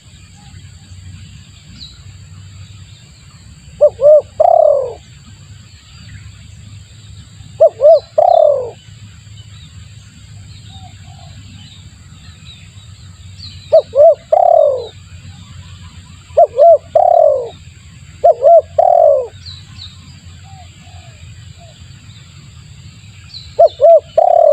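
Spotted dove (tekukur) cooing: a three-note phrase of two short notes and a longer falling note, repeated six times a few seconds apart, as used in a lure call. Faint high chirps of small birds come in between.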